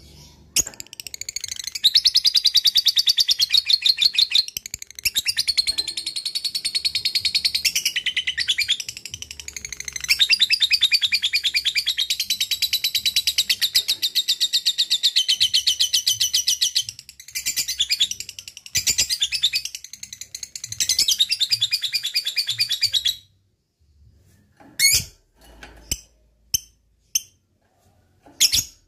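Lovebird doing its long 'ngekek' song: a fast, chattering trill of rapidly repeated high notes, kept up for about twenty seconds with only a few brief breaks. It stops suddenly, and only a few short, separate chirps follow near the end.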